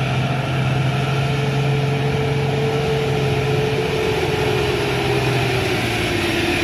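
A truck's diesel engine running steadily, its pitch easing down slowly over the last second or two.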